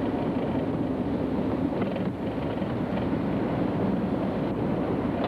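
Steady engine drone and wind noise, heard from aboard a moving vehicle.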